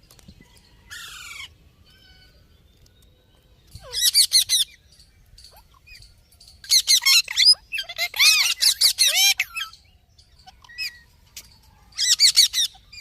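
A parrot calling in bursts of fast, repeated high squawks and chirps, with quiet gaps between: a short call about a second in, a burst near four seconds, a longer run of calls in the middle, and another burst near the end.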